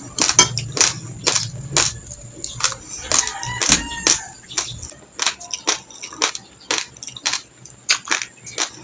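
Close-up crunching of raw basmati rice grains being chewed, a quick run of sharp cracks about two to three a second.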